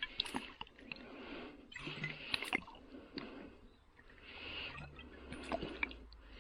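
Water and sludge sloshing and being shaken out of an old glass Coca-Cola bottle, in swells of about a second, with small glassy clicks and knocks.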